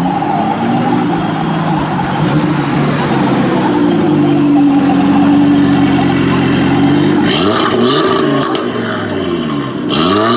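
A car's engine pulling hard at high revs, then two quick rev blips that rise and fall near the end.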